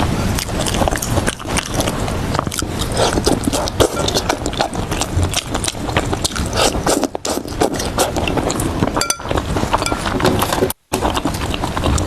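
Close-miked chewing and biting of food, a dense run of wet smacks and crisp crunchy clicks. The sound cuts out for a moment near the end.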